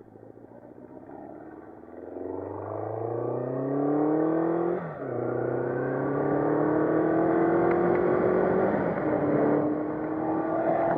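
A 1984 Honda CB700SC Nighthawk S inline-four engine pulling away and accelerating through the gears, its pitch climbing steadily and dropping sharply at an upshift about five seconds in and again near nine seconds in. The engine has a freshly rebuilt top end and is still being broken in.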